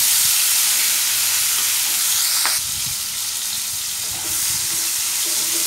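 Prawns sizzling loudly in hot oil in a nonstick kadai, just tipped in, while a wooden spatula stirs them. The sizzle eases a little about two and a half seconds in.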